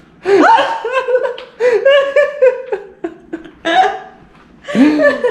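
Laughter in several bursts, with gaps between them.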